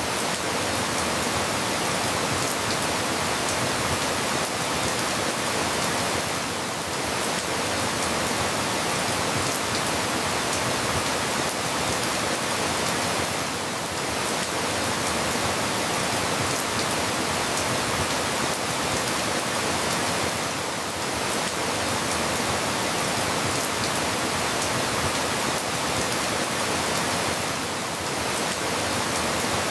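Steady rainfall, an even hiss of rain, with a slight lull about every seven seconds.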